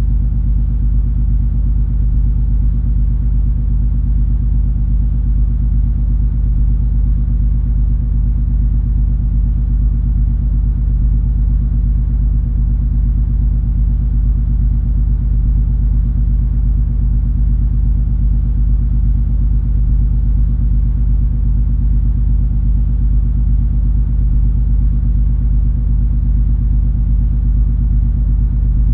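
Steady deep rumble and hum of the cruise ferry MS Color Magic under way, its engines droning evenly with no change in pitch or level.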